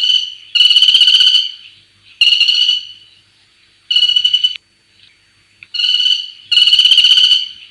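Crimson-backed flameback (greater Sri Lanka flameback) calling: a series of loud, high, rapidly pulsed rattling calls, each half a second to a second long, repeated about six times with short gaps.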